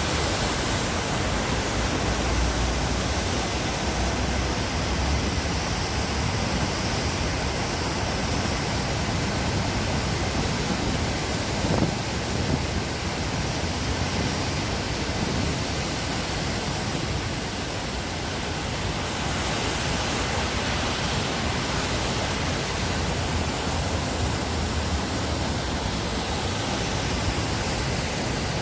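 Waterfall: a steady, even rush of falling water, with a brief slightly louder splash about twelve seconds in.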